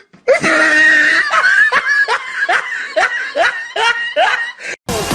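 A person laughing in a run of short, high bursts, about two or three a second, after a drawn-out high voice sound at the start; the laughter cuts off suddenly near the end.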